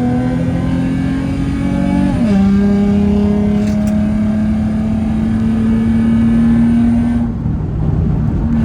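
Nissan 350Z's 3.5-litre V6 engine running on the move. Its note climbs gently, steps down in pitch about two seconds in like a gear change, then holds steady, and breaks off briefly near the end.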